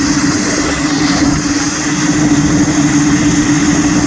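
Pulling tractor's engine running loud and steady at a constant note, with no rise or fall in pitch.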